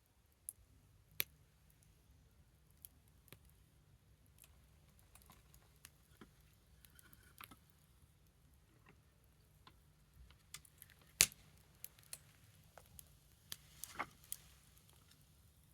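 Small wood fire crackling: sparse, irregular sharp pops and cracks from the burning wood, the loudest about eleven seconds in and a quick cluster near fourteen seconds.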